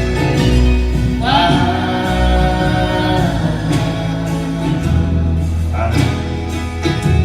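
Live acoustic folk band playing the close of a song, with long held sung notes over plucked acoustic guitar and bass, the first starting about a second in and another near the end.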